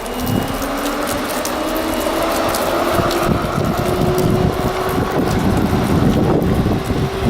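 Electric train pulling away, its motor whine rising in pitch and then levelling off as it gathers speed, with wind buffeting the microphone.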